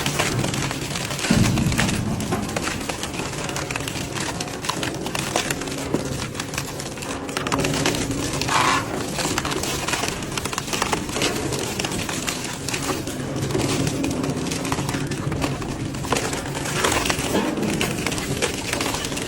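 Industrial metal shredder grinding scrap: dense crackling and crunching over a steady low drone.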